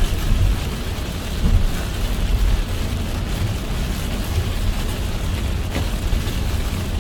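A car driving in heavy rain: a steady low rumble from the car and road, with the hiss of rain over it.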